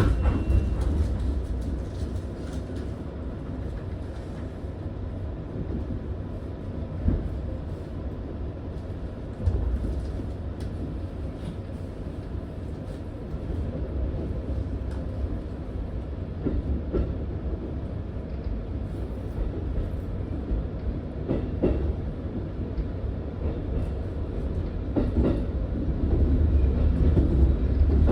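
Train running on rails: a steady low rumble with scattered clicks of the wheels over the track, growing louder near the end.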